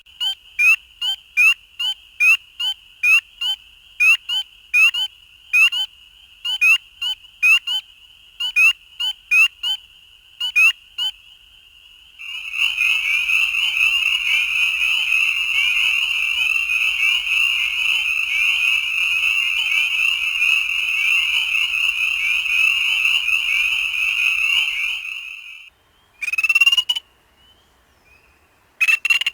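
Frogs calling in spring. First comes a series of sharp, high single calls, about two a second, over a steady high-pitched background chorus. About 12 seconds in, a dense, loud chorus of many frogs takes over, then cuts off abruptly. Two single calls follow near the end.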